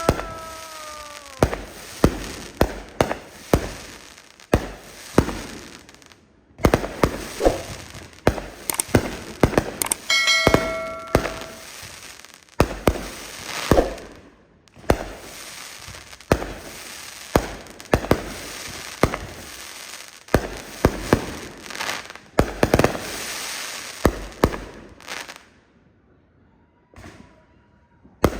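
Fireworks going off in a dense run of sharp bangs and crackles. A brief ringing tone sounds about ten seconds in, and the bangs die down near the end.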